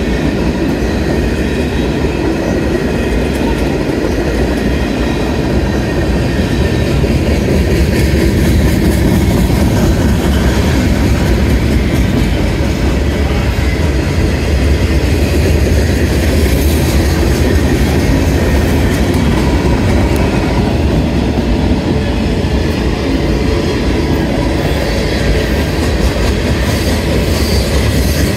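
Cars of a CSX mixed manifest freight train rolling past: a steady, loud rumble of steel wheels on rail that does not let up.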